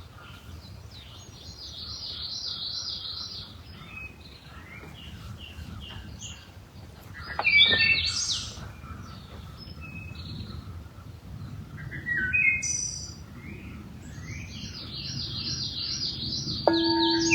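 Several wild birds singing and calling, one repeating quick runs of high chirps, over a steady low background hum. Near the end a struck bell-like tone starts ringing and sustains.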